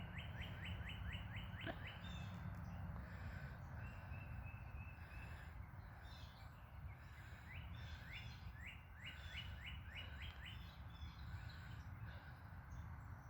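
Birdsong: a bird sings runs of short, quick falling notes, several a second, at the start, again about two seconds in and again in the second half, over a steady low background rumble.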